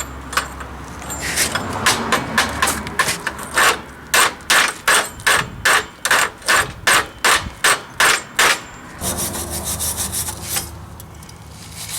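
Rhythmic scraping strokes, about two to three a second, of a wire brush being worked over a stick weld on steel plate to clean off the slag, with a quicker burst of strokes near the end.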